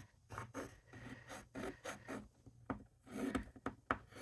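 Paper card stock being handled and rubbed on a work surface: a run of short, irregular scrapes and rustles.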